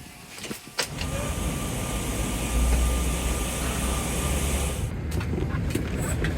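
Airbus A330-200 cabin at the gate during boarding: a steady low rumble with air-conditioning hiss, broken by a few sharp clicks near the start. The hiss drops away abruptly near the end, with a few more clicks.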